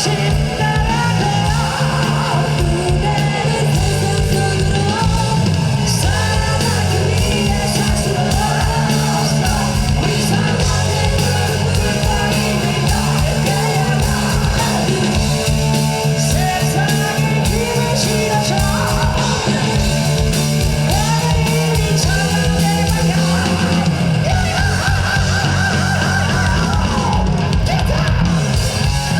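Live hard rock band playing loud through a PA system, with heavy electric guitars, bass and drums and a wavering lead melody over them.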